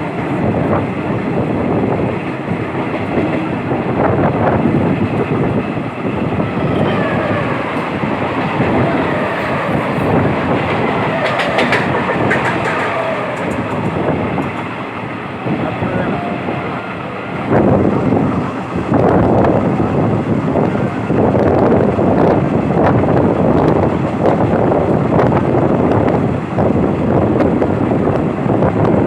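Passenger train coaches running along the track, wheels clattering steadily over the rail joints, growing louder a little past halfway.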